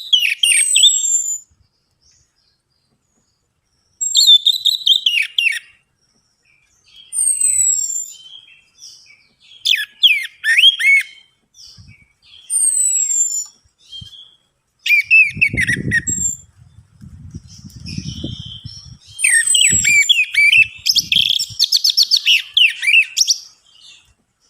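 Orange-headed thrush (anis merah) singing in short repeated bursts of quick, varied whistled phrases with fast down-sweeping notes, ending in a longer run of song. A low rumble is heard in the middle.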